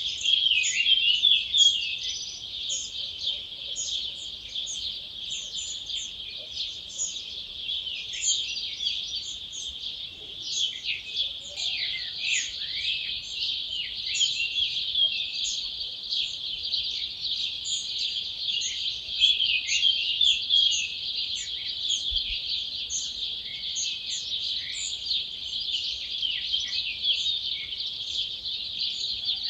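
Dawn chorus: many wild birds singing at once, a dense, continuous overlapping mix of short high chirps and whistled phrases.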